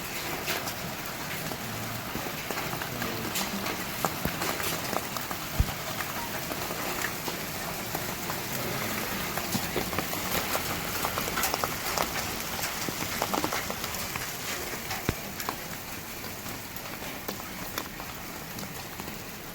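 Rain falling on a surface: a steady patter of drops with many scattered sharper taps.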